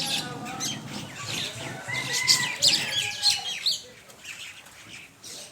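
A flock of mynas chirping and calling, many overlapping calls at once, thinning to a few scattered calls about two-thirds of the way through.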